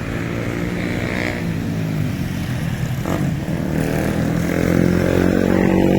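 City street traffic: engines of passing motor vehicles running steadily, growing a little louder near the end.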